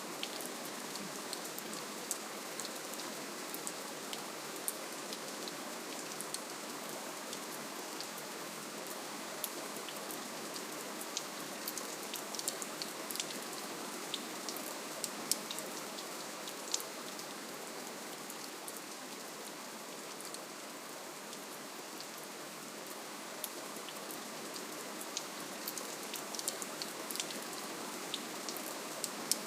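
Steady, gentle rainfall, with many single drops ticking sharply and irregularly above the even patter.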